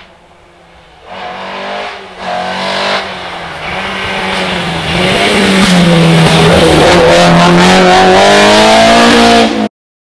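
Rally car engine approaching at full throttle, growing louder from about a second in and very loud for the last few seconds as the car comes by the crest. The sound cuts off suddenly near the end.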